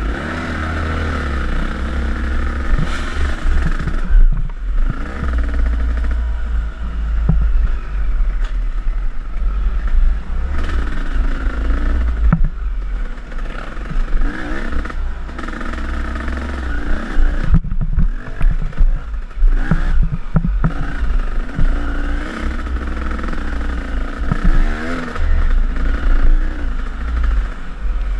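KTM enduro dirt bike engine revving up and falling back over and over as it rides a rough trail, with a heavy low rumble of wind on the camera microphone and scattered knocks and clatter from the bike over rough ground.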